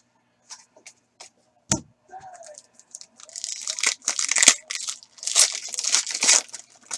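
Sports-card pack's foil wrapper being torn open and crinkled by hand, in two long stretches of tearing and rustling, after a single sharp click a little before two seconds in.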